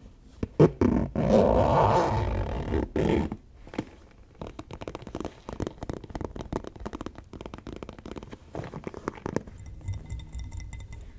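ASMR tapping: a sharp tap, then a loud scraping rustle for about two and a half seconds. Rapid fingertip tapping follows, many light taps a second for about five seconds. Faint ringing tones come in near the end.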